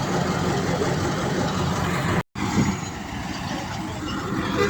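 Heavy diesel earthmoving machinery running steadily at work. The sound cuts out for an instant about halfway through, then resumes with a brief knock.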